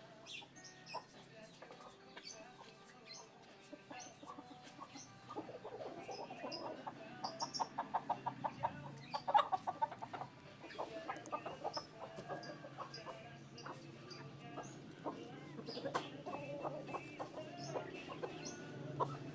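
Short clucking calls in quick runs of about six a second, loudest between about six and ten seconds in, over a low steady hum.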